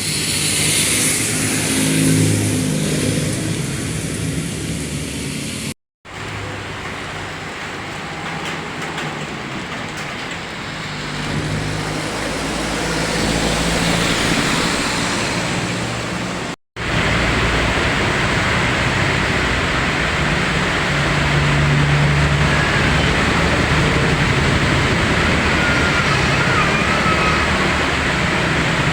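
Steady rain hiss with road traffic, car engines passing on a wet road. It breaks off abruptly twice where the recording cuts to another clip.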